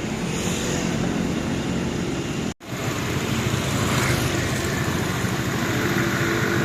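Loud, steady outdoor din, mostly vehicle-like engine noise, broken by a brief silent gap about two and a half seconds in.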